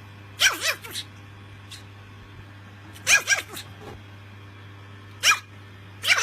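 A dog giving short, high-pitched barks in quick groups of two or three, with pauses of a second or two between groups.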